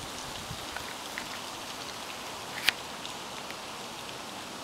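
Steady rain falling, with scattered raindrop ticks and one sharp tap about two and a half seconds in.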